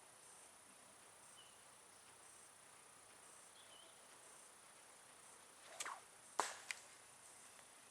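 A sling whipping round and letting a stone fly: a short swish followed by a sharp crack, then a smaller click, over a faint steady insect buzz.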